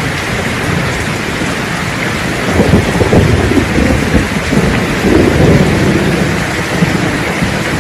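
Steady heavy rain hissing with thunder rumbling low underneath, the rumble swelling about two and a half seconds in and rolling on in waves.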